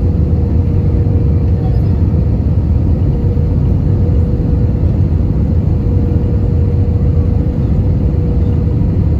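Airbus A320 cabin noise: a steady, loud low rumble of the jet engines and airflow, with a steady hum running through it.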